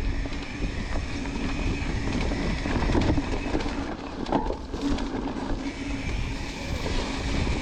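Mountain bike rolling downhill over wet rock: a steady rumble of the tyres and the bike rattling over the rough surface.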